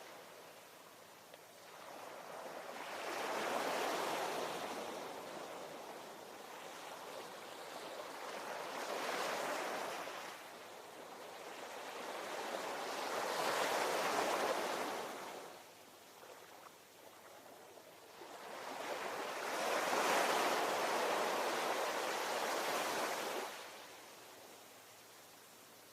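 Ocean waves washing in, four surges that each swell and fade over a few seconds; the last one is the longest and drops away fairly suddenly near the end.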